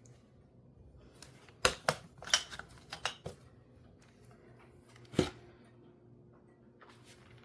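Several sharp clicks and knocks from hard objects being handled: a quick cluster between about one and a half and three seconds in, and one more at about five seconds, over a faint steady hum.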